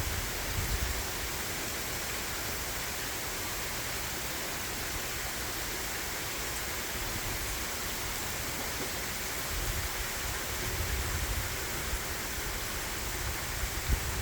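Heavy rain falling in a steady hiss, with occasional low rumbles around the start, from about ten seconds in, and near the end.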